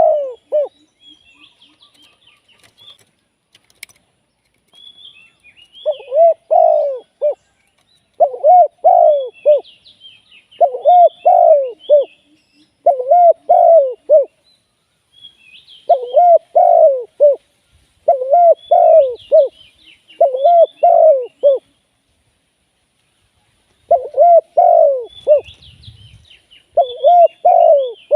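Spotted dove cooing: a low, repeated phrase of several notes, given about nine times with short gaps and one longer pause. Faint high chirps of small birds sound in the background.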